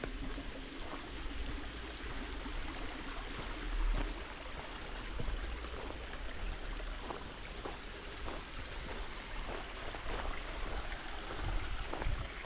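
Steady rush of running water, like a stream, with irregular light clicks and knocks scattered through it and a low rumble underneath.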